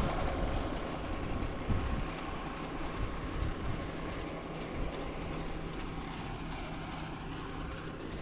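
Cessna 172's piston engine running steadily at low power while the plane taxis, heard from inside the cabin with the windows open.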